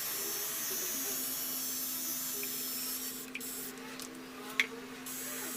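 Cordless 18-volt portable pressure washer spraying water: a steady hiss of the jet that breaks into short gaps in the second half, over a steady low hum, with one sharp click near the end.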